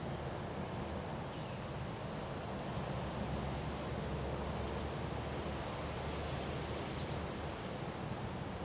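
Strong wind blowing steadily, rumbling on the microphone with a constant rushing hiss.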